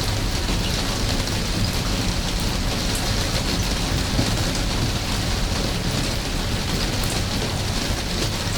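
Steady rain falling, an even hiss with scattered small drip taps, over a steady low rumble.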